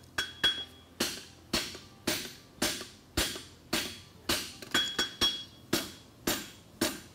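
Farrier's hammer striking a hot steel horseshoe bar on an anvil, about two blows a second, some with a quick light rebound strike and a faint ring. He is upsetting ("bumping") the inside heel to build up material for the shoe.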